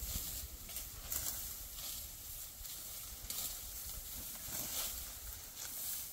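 Dry wheat stalks rustling, with repeated hissy swishing strokes about once or twice a second over a low rumble.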